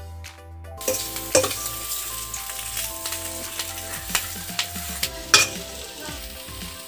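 Batter-fried fish pieces sizzling in hot oil and masala in a steel pan as a steel spatula stirs and tosses them, with a few sharp clinks of the spatula against the pan. The sizzling starts about a second in.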